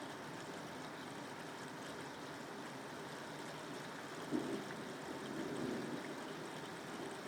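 Steady rain falling. About four seconds in, a low rumble starts suddenly and swells for a couple of seconds before fading back into the rain.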